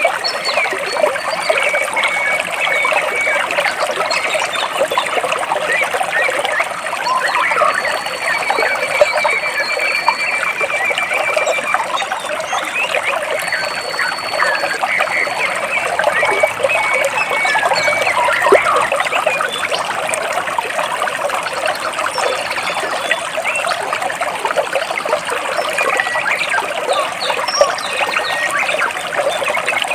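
Stream water flowing and gurgling steadily between large rocks, with a few high, thin bird trills now and then.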